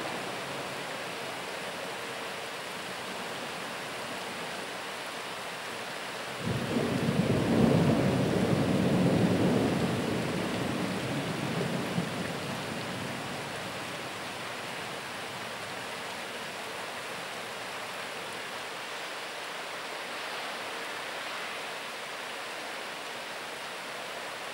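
Steady rain hiss with a thunderclap that breaks in suddenly about six seconds in, rumbles for several seconds and fades away.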